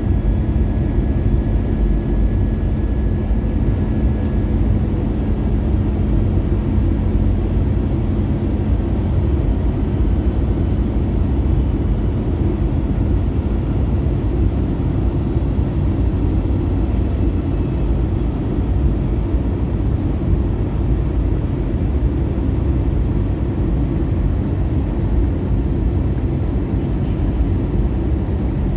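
Airbus A320-214 passenger cabin noise in flight on descent: a steady low rumble of airflow and CFM56 engine drone, with a faint low hum that fades about a third of the way through.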